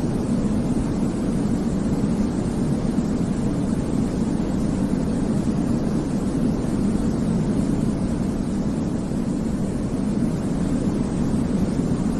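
Sleep white-noise track: a steady, unbroken hiss weighted toward the low end, so it sounds like a deep rumble, without any change.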